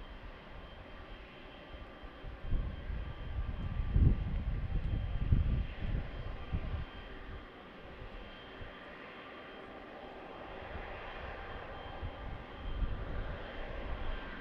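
Distant jet engines of a Boeing 777-300ER, its GE90 turbofans, running with a steady whine. A low rumble swells and fades through the middle and again near the end.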